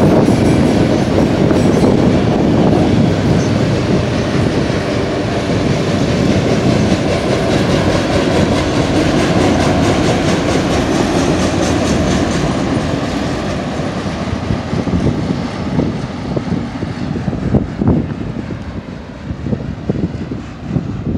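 Freight train of autorack cars rolling past at close range: a steady rumble and rattle of steel wheels on the rails. It fades over the last several seconds as the end of the train passes and moves away, leaving uneven gusty noise near the end.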